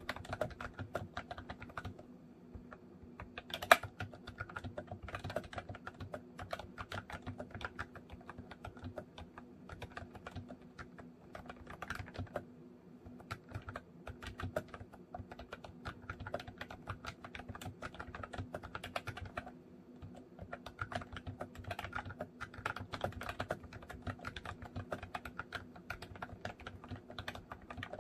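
Typing on a MOFii Retro Style Candy keyboard, a rapid stream of key clicks with short pauses about two, twelve and nineteen seconds in. One key lands much louder just under four seconds in.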